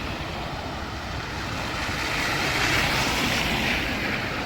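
A vehicle passing on a snowy street: its tyre hiss swells to a peak about three seconds in and then fades, over a low rumble.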